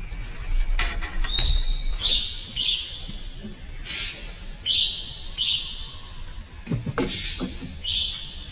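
A bird chirping repeatedly, about six short high calls, each dropping quickly in pitch at its start. A few sharp knocks sound alongside, with the heaviest, a low thud, near the end.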